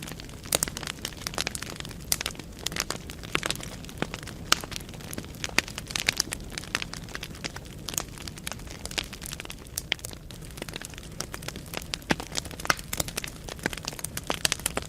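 Wood fire burning in a fireplace, logs crackling and popping with many irregular sharp snaps over a steady low rumble of the flames.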